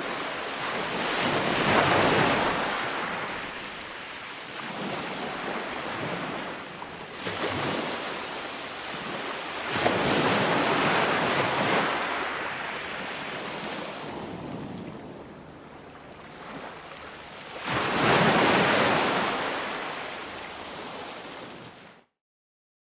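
Ocean waves breaking and washing in, rising to a large surge about every eight seconds with smaller swells between. The sound cuts off abruptly near the end.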